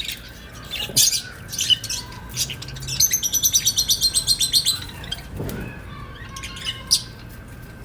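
Small ornamental cage birds chirping, with a fast trill of repeated high notes lasting under two seconds about three seconds in.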